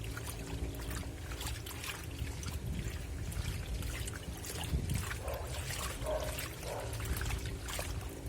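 Washing water sloshing and splashing in the wash tub, over a steady motor hum.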